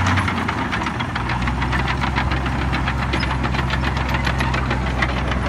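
Heavy diesel engine running with a fast, even clatter. Its low drone shifts and settles into a new steady pitch about a second in.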